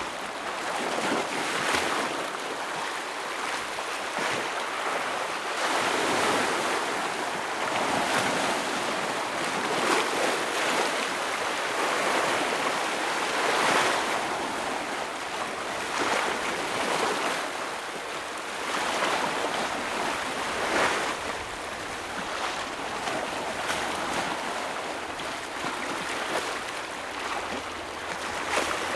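Ocean waves breaking and washing over rocks along the shore, a continuous surf with a fresh surge every few seconds.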